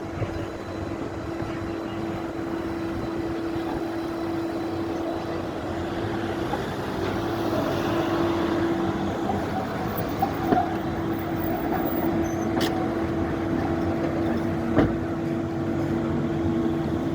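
City tram running, with a steady electric hum over street noise that slowly grows louder. A few sharp clicks or knocks come through near the middle.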